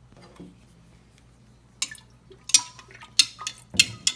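Stirring water in a small container, with faint liquid movement at first, then quick irregular clinks and taps of the stirring utensil against the container's sides from about two seconds in.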